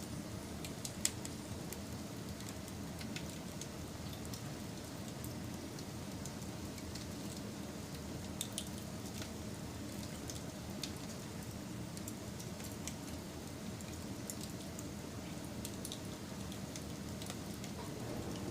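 Wood fire burning with a steady low rustle and scattered sharp crackles and pops, one louder pop about a second in.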